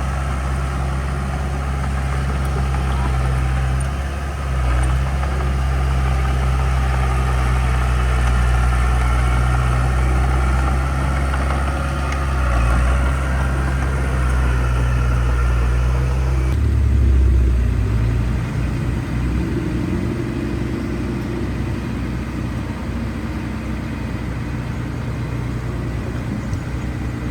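Heavy diesel engine of earthmoving equipment running steadily with a deep, low drone. About two-thirds of the way through the sound changes abruptly to a duller engine sound.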